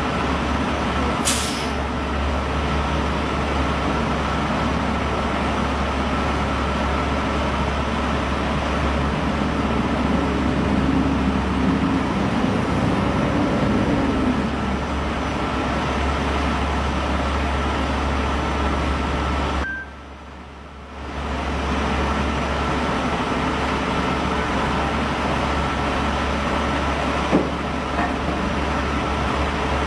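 Street traffic with heavy vehicles running, a steady low engine hum under the road noise. There is a short hiss of air brakes about a second in, and the sound drops out for about a second two-thirds of the way through.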